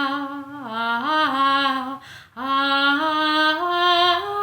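A woman singing a wordless, unaccompanied 'ah' line in long held notes: a dip and rise in pitch, a short breath about two seconds in, then a phrase that steps upward.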